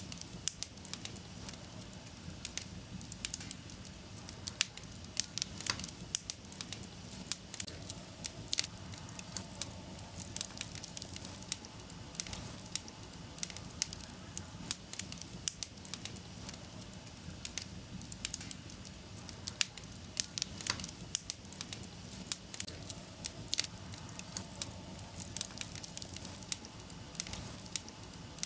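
Wood fire burning in a fireplace, crackling and popping with irregular sharp snaps over a steady low rumble of flames.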